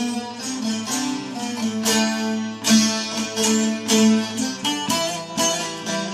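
Instrumental interlude of a Turkish folk song: a plucked string instrument playing a fast run of melody notes with sharp attacks.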